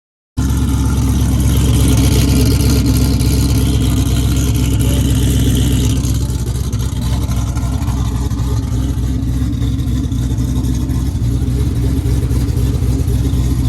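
Loud modified V8 car engine running steadily at a low, even speed. It cuts in suddenly about half a second in.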